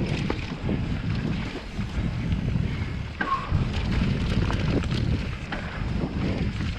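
Mountain bike ride on a dirt trail: wind buffeting the camera microphone over a low rumble from the tyres, with scattered clicks and rattles from the bike, and one short squeak about three seconds in.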